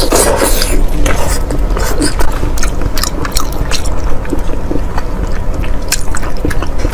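Close-miked eating sounds: wet chewing and squishing with many irregular sharp mouth clicks, over a steady low hum.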